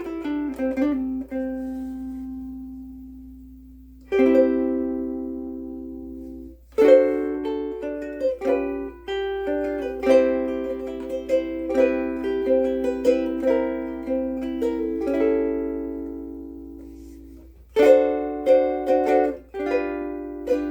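Pono Kalele curly mango soprano ukulele with Aquila Reds strings, played solo. A chord rings and fades slowly over about four seconds; further chords and a plucked melody follow from about seven seconds in. There is a brief gap shortly before the end, then the playing resumes.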